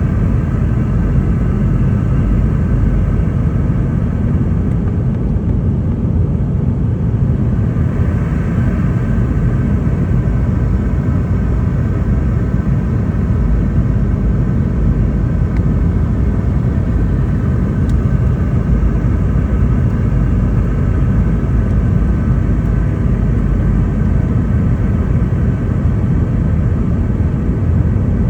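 Steady cabin noise inside a Boeing 717-200 in flight: a constant low rumble of airflow and the tail-mounted Rolls-Royce BR715 turbofans, with a few faint steady whining tones above it.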